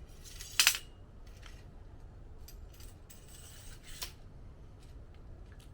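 Aluminum drying-rack rods clacking and clicking together as the rack is folded up into its tube: one sharp clack about half a second in, then lighter clicks and a short scrape of metal sliding, and another click about four seconds in.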